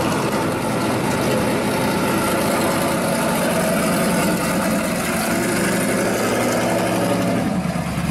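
V8 engine of a 1969 Chevrolet Camaro Z28 pro street car running at low speed as the car pulls out and drives off, a steady, even engine note with no revving.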